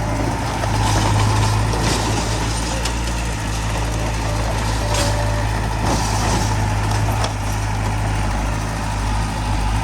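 Heavy diesel machinery running steadily, a loud, constant low engine drone with scattered clanks and rattles over it.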